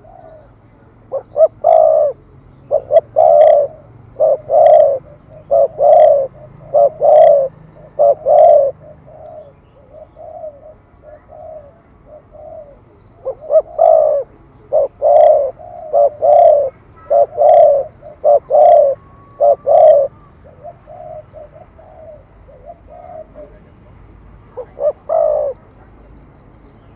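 Spotted dove cooing in rapid repeated series, the 'thúc gù' coo: one long run of low coos in the first third, a second run in the middle, and a few more notes near the end.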